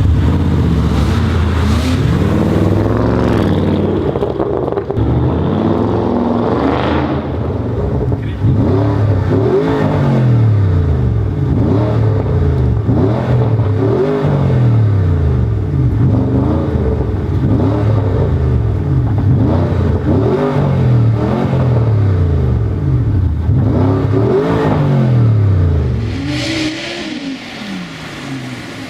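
Porsche Panamera Turbo S twin-turbo V8 with a TechArt exhaust being revved over and over: short throttle blips, each rising and falling in pitch, one every second or two. The revving stops near the end and it drops to a quieter running sound.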